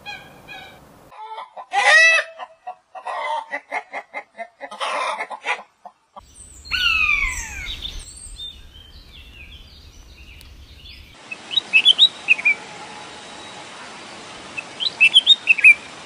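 A run of bird calls. First come short, repeated calls of a Eurasian coot. About six seconds in, a common buzzard gives several falling, mewing whistles. From about eleven seconds on there are scattered short chirps over a steady hiss.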